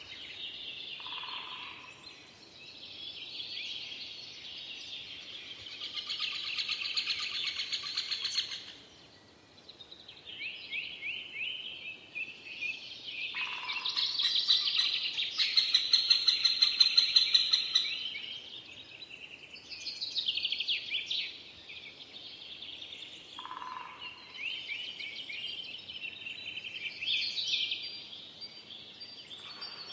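Forest songbirds singing, several songs overlapping in fast trills and chirps, loudest in the middle. A short lower note comes about every ten seconds.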